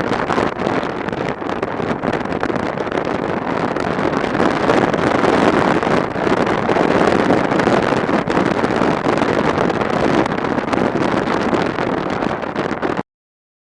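Wind rushing over the microphone of a camera on a moving motorcycle, mixed with the bike's road and engine noise, then cutting off abruptly near the end.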